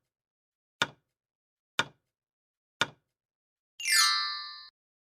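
Quiz countdown sound effects: sharp clock-like ticks about one a second, four of them, then a bright ringing chime that fades and cuts off suddenly, the cue that the time for the question is up.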